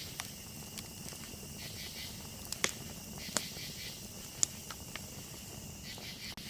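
Campfire crackling with scattered sharp pops, the loudest about four and a half seconds in, over a steady chorus of crickets chirping.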